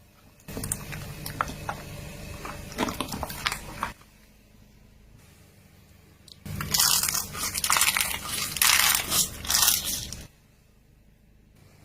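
Crunching and crackling as a car's tyre rolls over and crushes brittle objects, in two stretches about three to four seconds long, with a low rumble beneath each.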